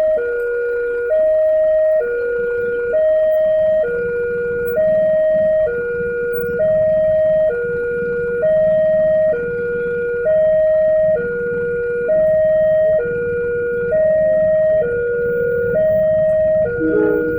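Railway level-crossing warning alarm sounding, a steady two-tone high-low electronic tone that switches pitch about once a second. A low rumble builds underneath from a few seconds in.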